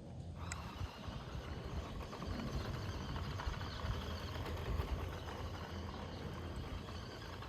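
Small 1:14-scale electric RC car driving over dirt, its tyres crackling steadily over loose soil and grit.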